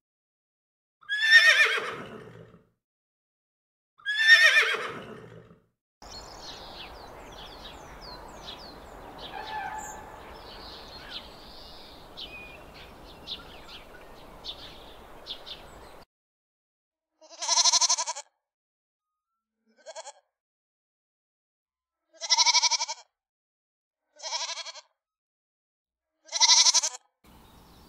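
A horse whinnying twice, each whinny falling in pitch. Then about ten seconds of steady outdoor hiss with small bird chirps, and from about 17 s a goat bleating five times, short calls a couple of seconds apart.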